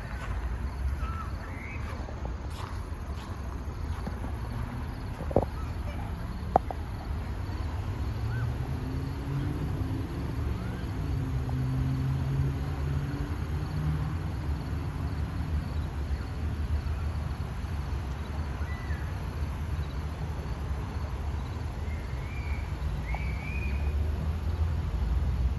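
Outdoor ambience: a steady low rumble with a faint low hum through the middle, a few short high chirps, and two sharp clicks about five and six and a half seconds in.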